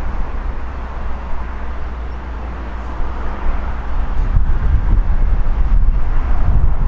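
Diesel passenger train running past, a steady noisy rumble that grows louder about three seconds in.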